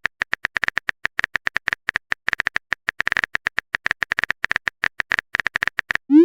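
Phone keyboard typing clicks, a rapid irregular run of short taps, ended near the close by a short rising swoosh of a message being sent.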